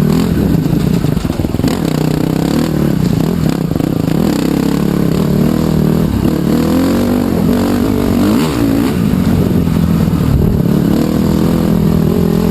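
Trail bike engine running under way, its revs rising and falling repeatedly as the rider works the throttle.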